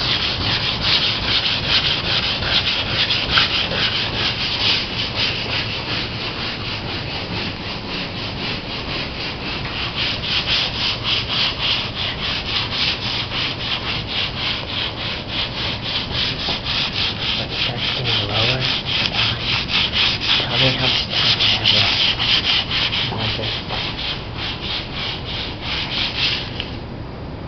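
80-grit wet/dry sandpaper rubbed in quick, rhythmic back-and-forth strokes over the painted fibreglass hull of a Laser sailboat, taking the top layers of paint off. The strokes stop near the end.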